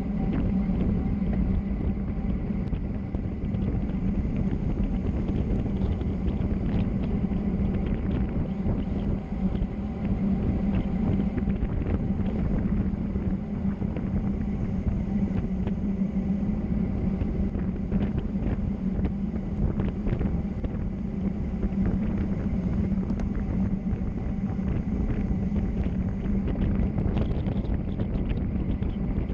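Steady wind rush and road noise of a fast downhill descent, with a constant low hum underneath.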